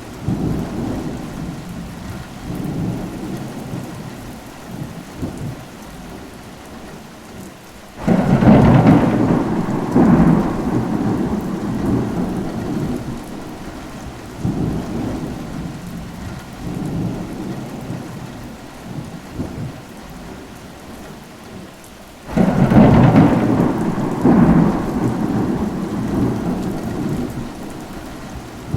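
Steady rain with thunder: twice a loud rumble of thunder breaks in suddenly, swells again a couple of seconds later and rolls away slowly, once about a third of the way in and once near the end.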